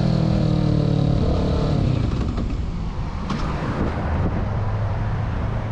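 Motorcycle engine with its note falling over the first couple of seconds as the bike slows, then giving way to a steady rushing road noise.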